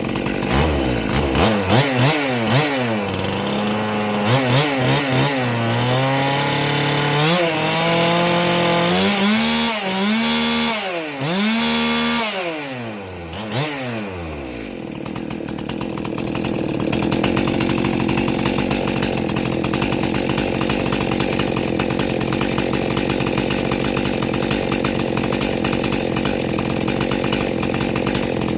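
A rebuilt, mildly ported Stihl MS 261 chainsaw's two-stroke engine being revved in repeated throttle blips, the pitch rising and falling, for about the first half. It then drops back to a steady idle.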